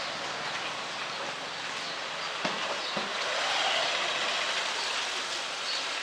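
Steady rain falling and pattering on surfaces, with two short knocks about halfway through.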